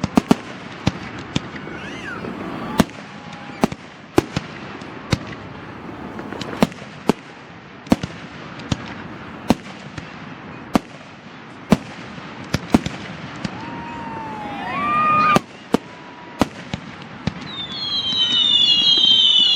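Fireworks display: a steady run of sharp bangs, roughly one or two a second, over a constant crackling hiss. About 14 seconds in, whistling shells glide up and down in pitch, and near the end a cluster of high whistles swells in loudness.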